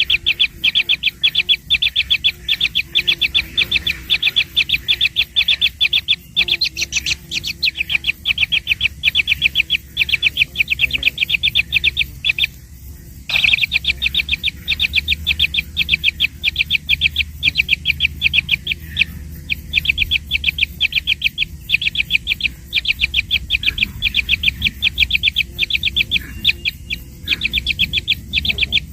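Baby birds chirping rapidly and insistently, a fast run of short high chirps several a second with a brief pause about twelve seconds in: nestlings begging for food.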